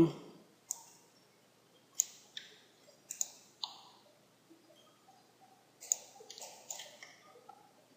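Irregular, scattered clicks of a computer mouse and keyboard, some in quick little clusters, as someone works in 3D modelling software.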